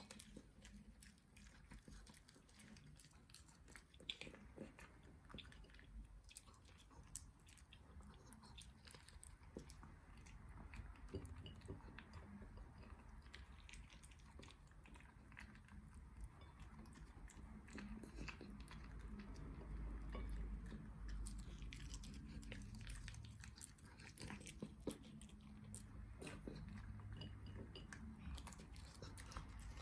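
Dachshund chewing bacon and pancake, a long run of faint, irregular wet clicks and bites.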